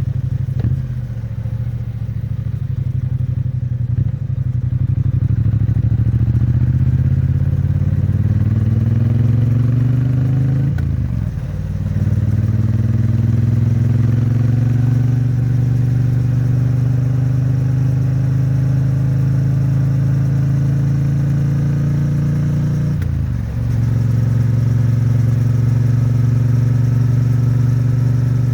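A 2022 Triumph Bonneville T100's 900 cc parallel-twin exhaust under way. The engine pulls up in pitch, drops briefly twice as it shifts up a gear, then settles to a steady cruise. It is kept at modest revs while still being run in.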